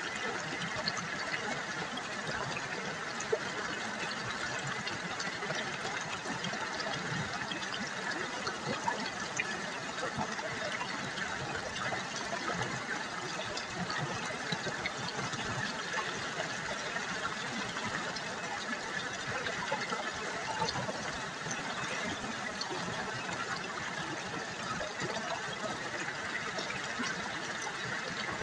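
River water trickling and babbling steadily, an even rush with many small splashes throughout.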